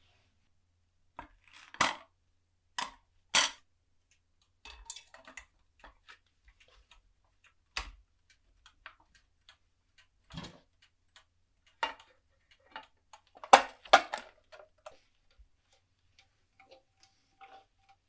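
Irregular sharp clicks and taps of small hard parts being handled and fitted, a few of them louder knocks.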